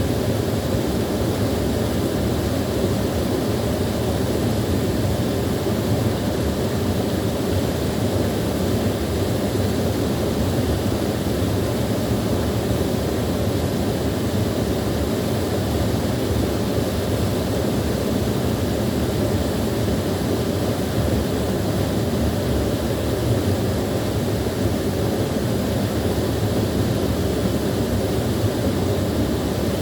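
Small waterfall: water pouring and splashing in a steady, low rush with no breaks.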